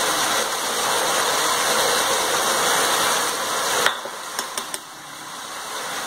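Chicken and onion-tomato masala sizzling steadily in a nonstick pan. About four seconds in, the sizzle cuts off suddenly with a click. A few faint ticks follow, and then the sizzle slowly builds back.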